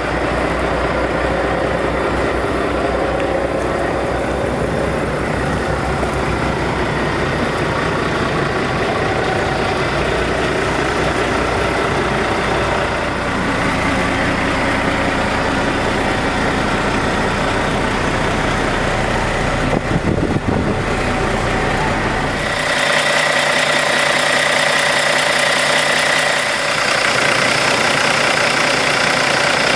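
Peterbilt 386 day cab's diesel engine idling steadily. About three-quarters through, the deep low rumble suddenly drops away, leaving a lighter, higher-pitched running sound; a few knocks come just before.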